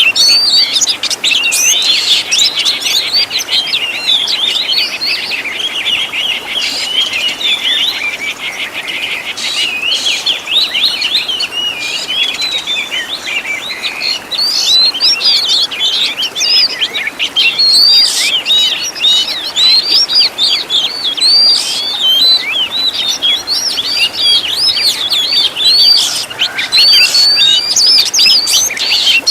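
Oriental magpie-robin (kacer) singing a fast, unbroken run of varied chirps and whistles, packed with phrases borrowed from other birds' songs.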